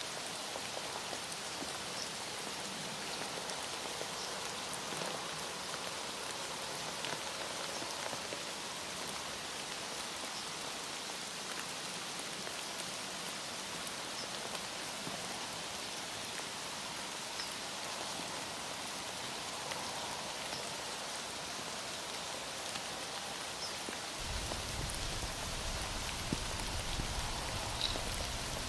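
Heavy rain falling steadily: a dense, even hiss with scattered drop ticks. A low rumble joins near the end.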